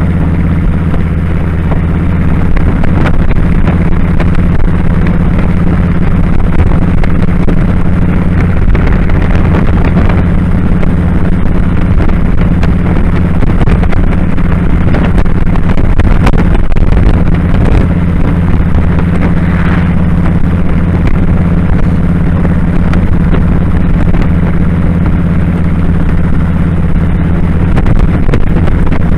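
2001 Kawasaki Drifter 1500's V-twin engine running at a steady, even speed while the motorcycle is ridden.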